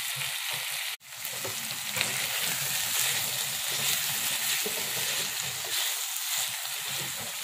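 Chicken, banana-stem and potato curry frying and sizzling in a karahi while a wooden spatula stirs it, the freshly added ground spices cooking into the oil. The sound cuts out briefly about a second in, then the steady sizzle and stirring resume.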